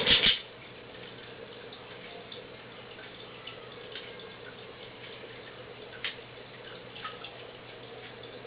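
Budgie playing with toys on a play gym: a short, loud clatter of knocks and rattles at the start, then occasional small clicks and taps over a steady low hum.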